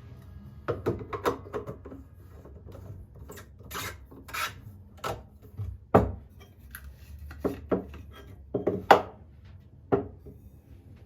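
Irregular clicks and knocks of small objects being handled and set down, with a few short rubbing scrapes about three to five seconds in.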